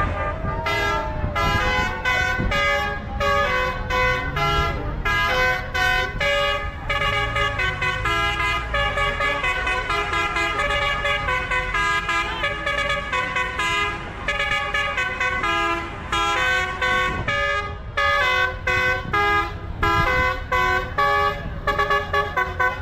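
A musical vehicle horn playing a tune in quick separate notes, over the low running rumble of engines.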